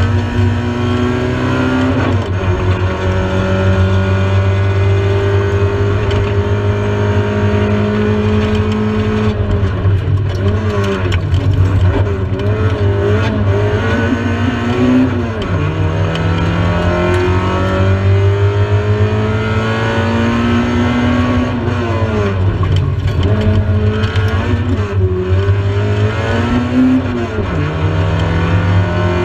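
Rally car's engine at full stage pace, heard from inside the cabin. The revs climb steadily through each gear and drop sharply at each change, several times, with quick rises and falls about ten to fourteen seconds in. A steady low road and drivetrain hum runs underneath.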